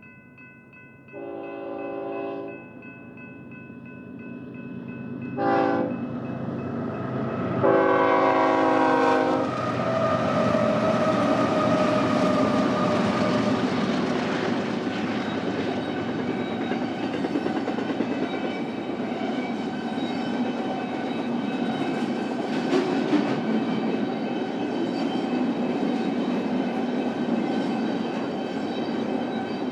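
Diesel freight locomotive's multi-chime horn sounding three times as the train approaches: a blast about a second in, a brief tap, then a longer blast. The lead locomotives then go by, and a long intermodal freight train follows with a steady rumble and clickety-clack of wheels on the rails.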